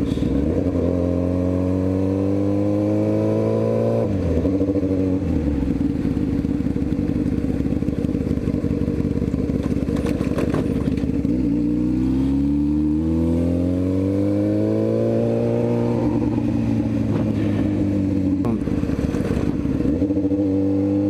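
Motorcycle engine pulling with rising pitch, then dropping sharply about four seconds in as it shifts up, running steady for a while, revving up again and easing off near the end.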